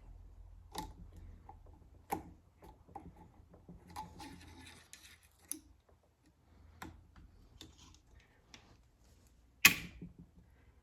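Small metal clicks and taps of a snap ring being worked into place with pliers on a Ford Toploader four-speed transmission, with one loud sharp click near the end.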